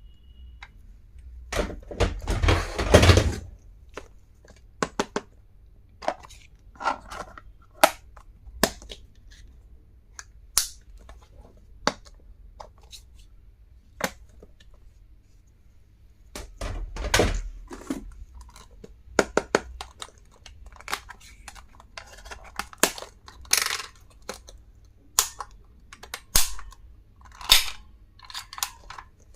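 Stationery being unpacked by hand: packaging rustling and tearing in two longer stretches, about two seconds in and again about seventeen seconds in, between scattered clicks and taps of small plastic items being handled.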